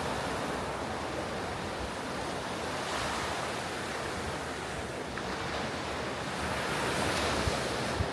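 Ocean surf breaking on a beach, a steady wash of waves that swells about three seconds in and again near the end, with wind buffeting the microphone in low thumps.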